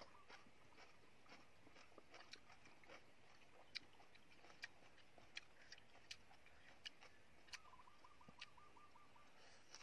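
Faint close-up chewing of crunchy stir-fried water spinach and pork: scattered soft clicks and crunches at an uneven pace.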